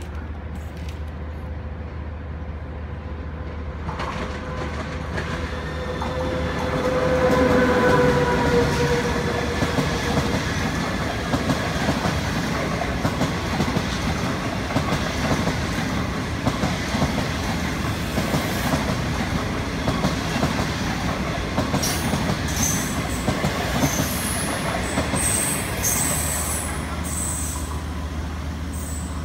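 China Railways SS8 electric locomotive and its train of passenger coaches passing at speed: the noise builds to a peak as the locomotive goes by with a steady electric hum, then the coaches' wheels rattle and clack over the rails. Near the end a string of short high-pitched wheel squeals cuts through the rattle.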